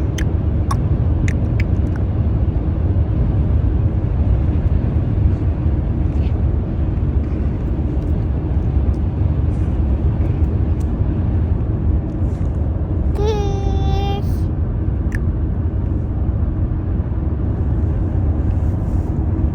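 Steady low outdoor rumble throughout, with a few faint clicks near the start and one short held pitched call, a voice or a bird, about 13 seconds in.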